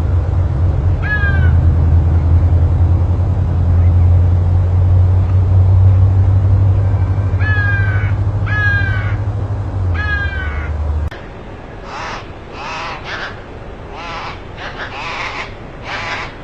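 A steady low rumble with four short, downward-sliding bird calls, then the rumble cuts off suddenly about eleven seconds in and a bird calls over and over in quick succession.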